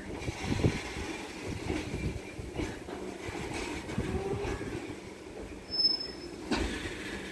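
Loaded freight train wagons rolling slowly past while braking to a halt: wheels rumbling and knocking irregularly over the rail joints, with a brief high squeal about six seconds in.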